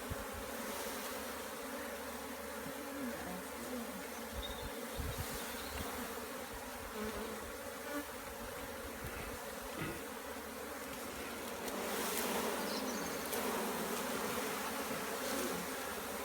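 A swarm of honey bees buzzing around a hive as they are being hived, a steady dense hum with single bees droning past close by, their pitch rising and falling as they pass.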